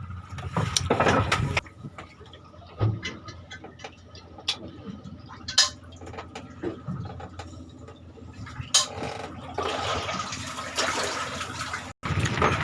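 Water sloshing and splashing, with scattered knocks and clicks.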